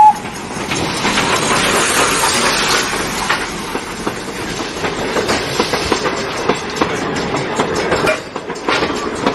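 Ride noise aboard an odong-odong tourist road train: the wagons rattle and clatter steadily over the road, with a dense run of small knocks.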